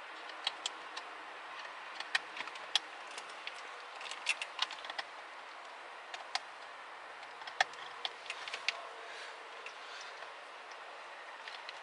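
Irregular small clicks and rattles of plastic wiring-harness connectors being handled and pushed back into a car's body control module, over a steady faint hiss.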